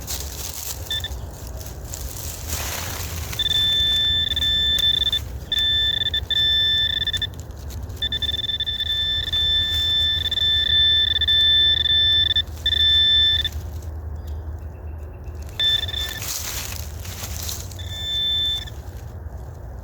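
Metal detector sounding its high target tone in repeated beeps of varying length as the coil passes back and forth over a buried target, sounding steadily for several seconds, then a few more short beeps near the end, with a couple of brief rustles between.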